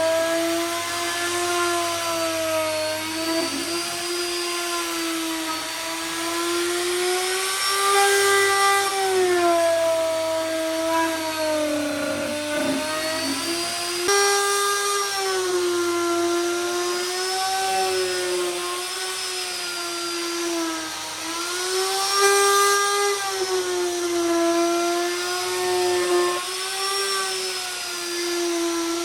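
Handheld electric power tool running continuously, its motor pitch dipping and recovering every few seconds as it is pressed into the work, with an abrupt break about halfway through.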